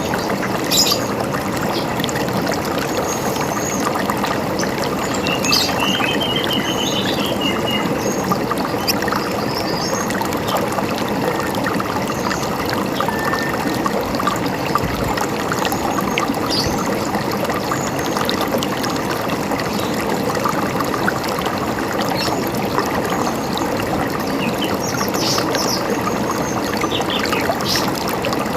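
River water running and gurgling steadily, with birds chirping and whistling briefly now and then over it.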